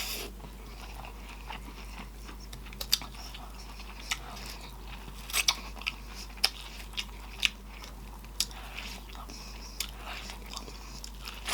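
Close-miked chewing of food, with sharp wet mouth smacks and clicks at irregular intervals.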